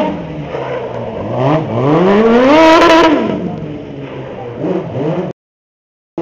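A loud modified rally-style car's engine revving, its pitch climbing to a peak about two and a half seconds in and then falling away, with a shorter rise near the end. The sound then cuts out completely for nearly a second.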